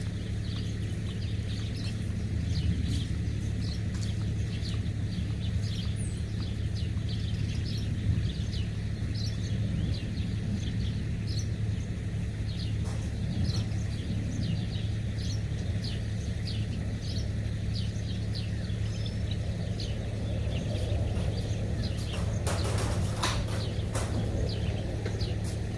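Small birds chirping busily, with many short calls over a steady low outdoor hum. A brief cluster of sharp clicks comes near the end.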